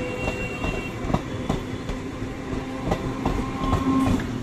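Eastern Railway suburban EMU local train passing close by at speed: wheels clacking over rail joints in irregular sharp clicks over a steady hum.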